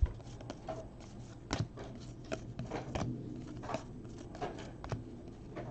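Baseball trading cards handled by hand, flipped and slid off a stack one after another: a string of soft, irregular clicks and rustles.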